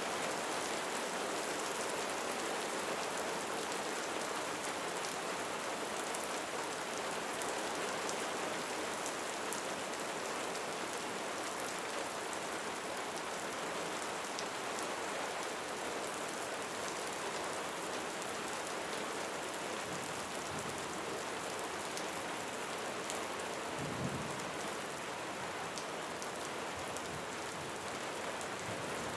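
Steady rain drumming on a roof, a dense even hiss with scattered sharper drop ticks. A brief low thud about three-quarters of the way in.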